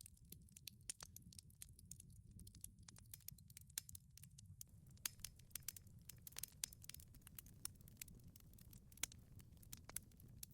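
Wood fire crackling in a wood-fired pizza oven: irregular sharp pops and snaps, several a second, over a low steady rumble.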